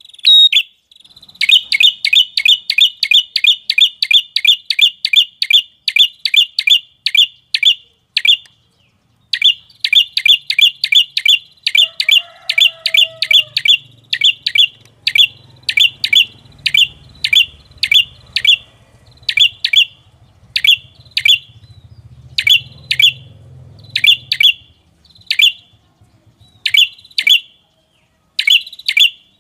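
Prenjak kepala merah lure call: short, sharp chip notes repeated in a fast series of about four to five a second. After a pause of about a second the series picks up again and gradually slows to single notes about a second apart near the end.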